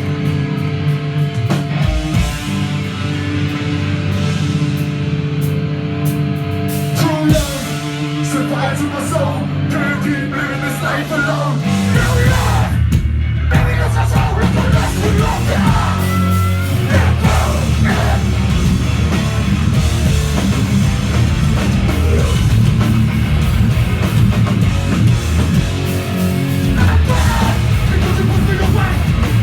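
A hardcore punk band playing live at full volume: distorted electric guitar chords ring out held over a bass line, then the drums and full band come in hard about twelve seconds in.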